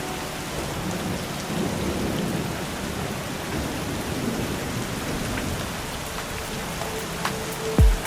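Steady rain falling, with distant thunder rolling low in the middle. Near the end a deep kick drum comes in.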